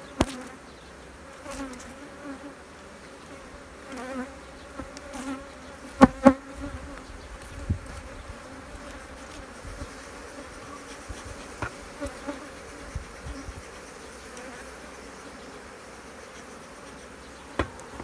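Honeybee colony buzzing steadily from an open hive, with a few sharp knocks, the loudest two in quick succession about six seconds in.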